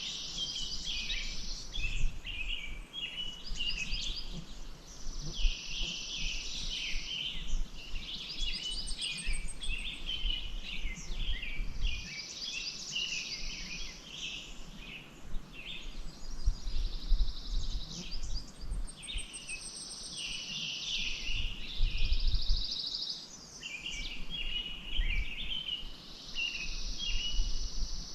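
A songbird singing repeated phrases every few seconds, each a high buzzy trill followed by quick chattering notes, over a low rumble.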